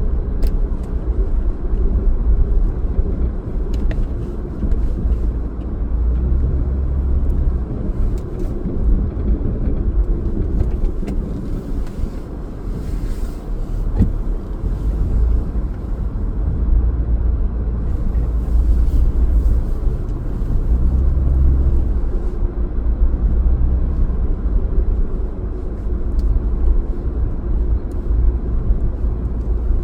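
A car driving: a steady low rumble of engine and tyres on the road that swells and eases, with a few faint clicks.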